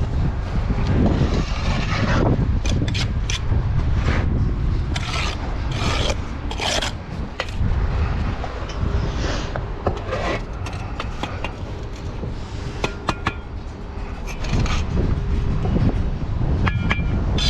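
Bricklayer's steel trowel scraping and spreading mortar in repeated short strokes, with a few short ringing clicks near the end. Wind rumbles on the microphone throughout.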